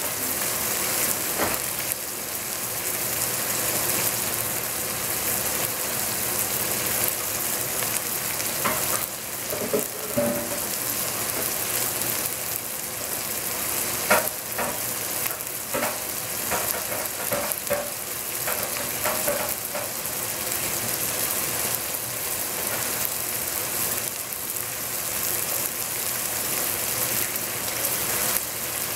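Leafy Chinese greens cooking in a stainless steel pot on the stove, a steady sizzling hiss with scattered little pops and crackles.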